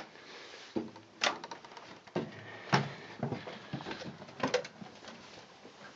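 A few scattered light clicks and knocks, likely handling noises, with the tractor's diesel engine not yet running before its cold start.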